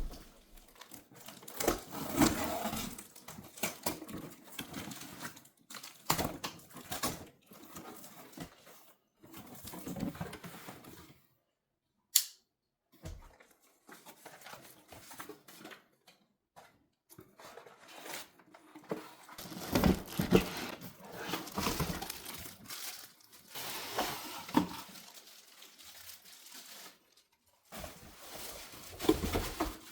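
Irregular rustling, crinkling and light clicking of things being handled by hand, with a brief drop to dead silence about twelve seconds in.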